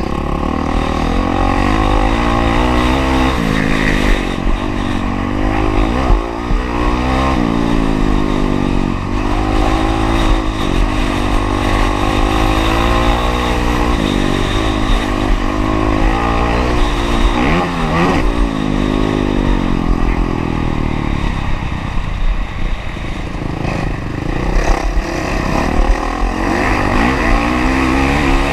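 Honda CRF450R single-cylinder four-stroke motocross bike ridden hard around a dirt track, its engine revving up and dropping back again and again as the rider works the throttle and gears through the turns and straights.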